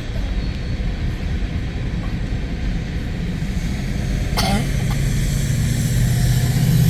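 Norfolk Southern coal train rolling past, its cars rumbling steadily over the rails. A brief knock comes about four and a half seconds in, and a low steady drone grows louder from about five seconds in.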